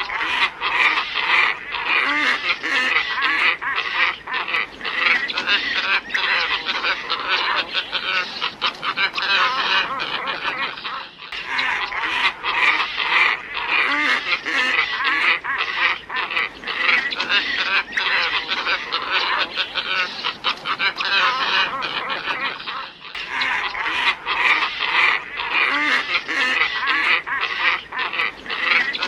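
A flock of glossy ibises calling all together: a dense, continuous chorus of harsh croaking calls, played as a bird-lure recording. The chorus breaks off for a moment about every eleven and a half seconds and starts again.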